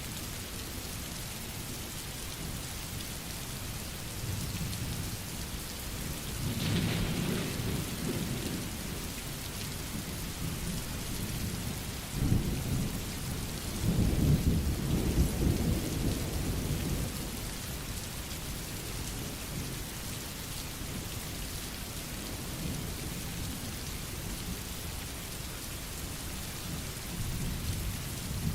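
Steady rain falling, with rolling thunder rumbling low twice: briefly about a quarter of the way in, then louder and longer around the middle.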